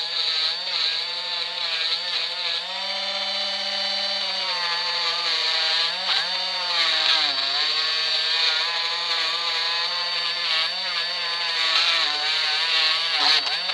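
Parkside cordless multi-grinder (rotary tool) running at low speed with a fibre polishing wheel, buffing Brasso on a silver ring. Its motor whine dips and recovers in pitch several times.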